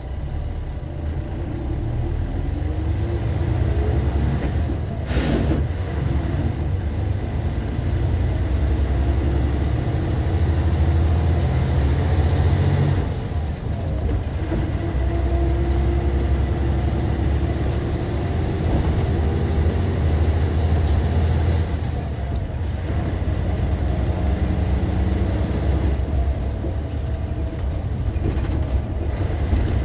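Hyundai D6CC Powertec 380 six-cylinder diesel engine of a Hyundai Universe Comfort coach running on the road, a steady low drone that builds over the first few seconds. It dips briefly twice, near the middle and about two-thirds through.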